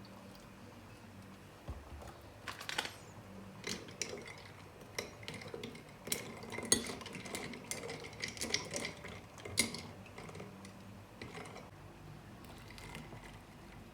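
Dishes and cutlery clinking and clattering in a series of light, irregular knocks, some leaving a brief ring.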